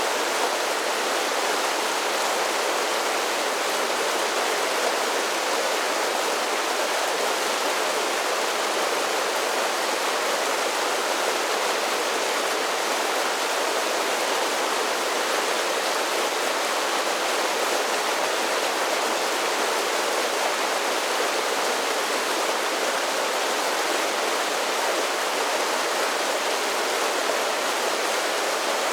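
Mountain creek cascading over a series of small waterfalls, a steady, even rush of falling and splashing water.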